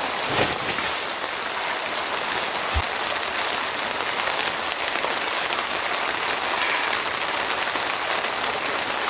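Steady rain falling, an even hiss of patter with a few louder single drop hits.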